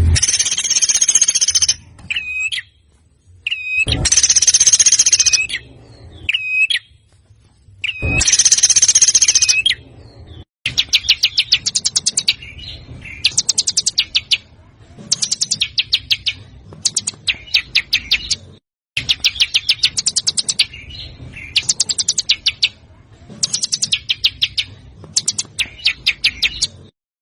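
Recorded songbird calls from a masteran bird-song training track. First come three long, harsh, buzzy notes of about two seconds each, alternating with short hooked chirps. From about ten seconds in, they give way to repeated rapid trilled bursts of about a second each.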